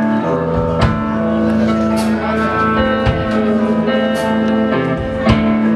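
Live rock band playing an instrumental stretch: guitar over sustained bass and keyboard notes, with a drum and cymbal hit about once a second.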